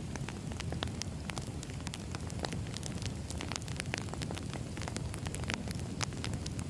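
Firewood fire burning: a steady low rumble of flames with frequent sharp, irregular crackles and pops from the burning wood.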